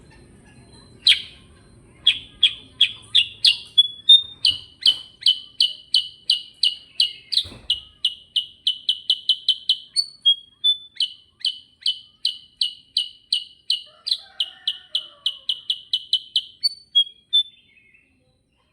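Kutilang sutra, a bulbul, singing in a long continuous roll ('ngerol'): one sharp note, then a rapid run of short, repeated chirping notes at about four a second, with a brief switch of note midway, stopping shortly before the end.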